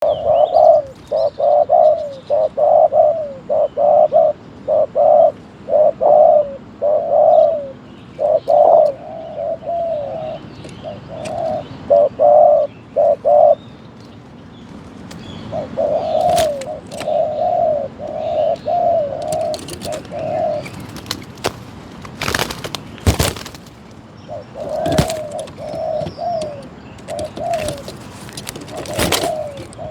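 Spotted dove cooing over and over in long runs of short coos, with a break of a few seconds near the middle. Several sharp knocks sound in the last third.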